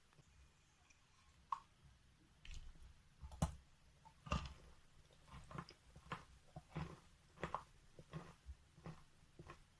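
A person biting and chewing pieces of wet natural chalk: a few faint ticks at first, then irregular crunches at about two a second from about two and a half seconds in.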